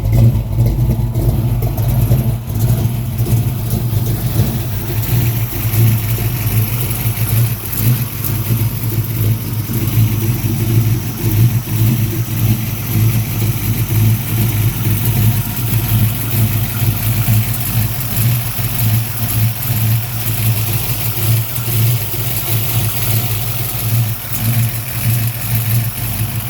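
GM G-body car's engine idling steadily in the first minute after a cold start.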